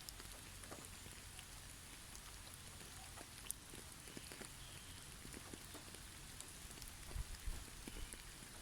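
Faint pattering of heavy snowfall on snow-covered trees: a steady hiss with many scattered light ticks, and a few soft low thumps about seven seconds in.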